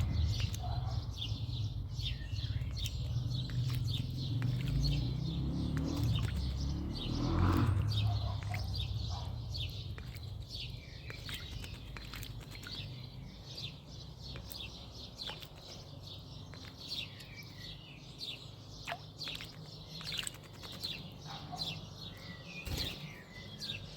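Garden birds chirping in many short, quick calls, over a low rumble that fades out in the first ten seconds or so.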